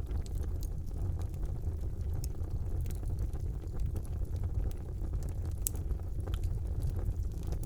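Wood fire burning in a fireplace: a steady low rumble of the flames with scattered sharp crackles and pops, one louder pop a little before six seconds in.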